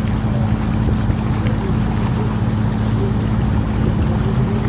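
Canal tour boat's engine running steadily: a low, even hum.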